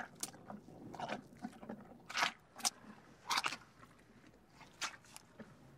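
A white rhinoceros cropping and chewing dry grass: a string of irregular, short crunching tears, about half a dozen, the loudest a little after two seconds and again around three and a half seconds.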